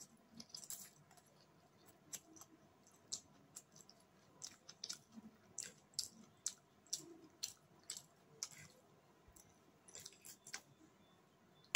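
Faint eating sounds of someone chewing a mouthful of chow mein noodles: irregular soft wet clicks and smacks, a few each second at times.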